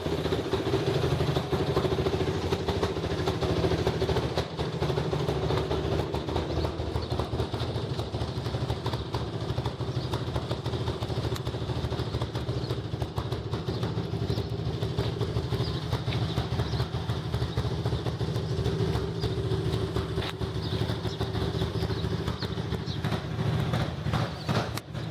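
Motorcycle engine running steadily at an even, unchanging speed.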